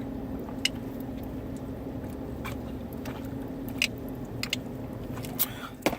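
A person chewing food, with scattered sharp mouth clicks, over a steady low hum.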